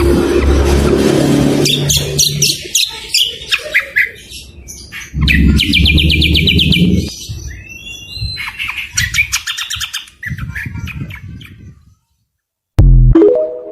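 Greater green leafbird (cucak kombo) and other songbirds singing in a dense mix of rapid chattering trills and short whistled glides. The song stops about twelve seconds in, and a short, loud, low-pitched tone follows.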